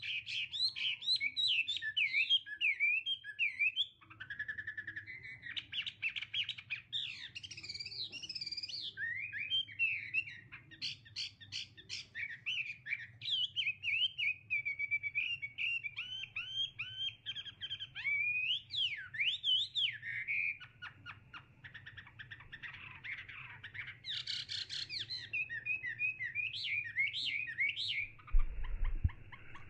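Several small birds chirping and calling over one another in quick rising and falling notes, with a low thump near the end.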